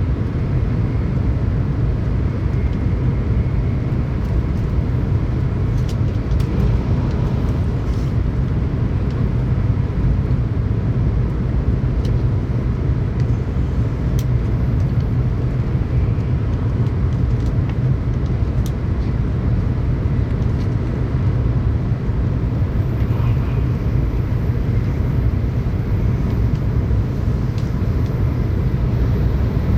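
Steady low rumble of a Tokaido Shinkansen train running at speed, heard from inside a passenger car, with a few faint clicks now and then.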